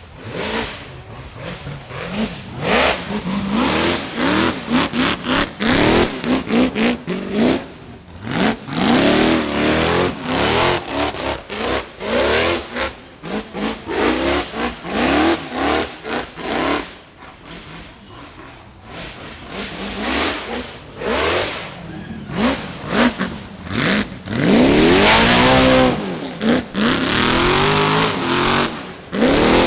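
Rock bouncer buggy engine revving hard in short, repeated bursts, its pitch sweeping up and down. The longest and loudest rev comes near the end.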